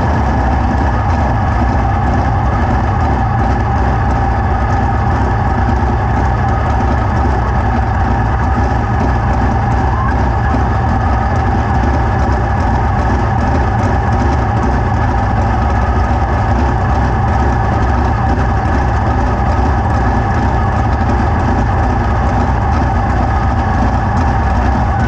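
An engine running at a steady, unchanging speed: an even drone with no revving.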